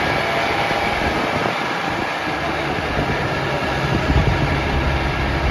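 Vehicle engine running with a steady rush of road noise, heard from inside a moving car.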